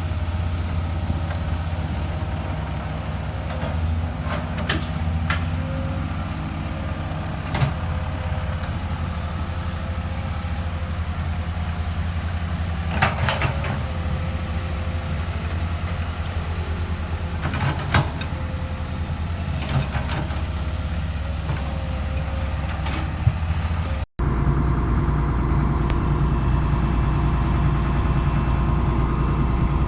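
Diesel excavator engine running steadily with a low hum, with occasional short clanks and knocks from the machine working. Near the end the sound cuts abruptly to a different, deeper engine drone.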